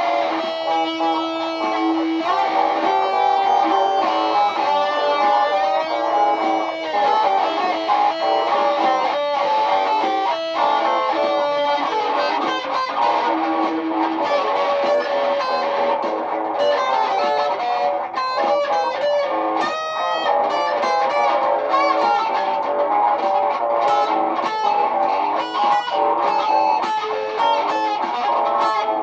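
Layered electric guitar loops playing together: repeating picked and strummed lines stacked over one another, with sharp, noisy high clicks and scrapes running through them from about seven seconds in.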